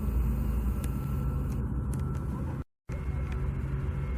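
Steady low rumble of a motor vehicle running. The sound drops out completely for a split second about two-thirds of the way in.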